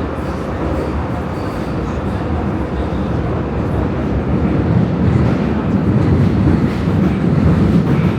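Prague metro train running in the tunnel between stations, a steady rumble of wheels on rail that grows a little louder about halfway through.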